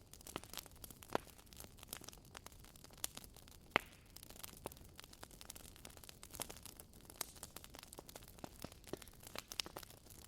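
Wood fire crackling: irregular sharp pops and snaps over a faint hiss, with two louder pops about a second in and near four seconds in.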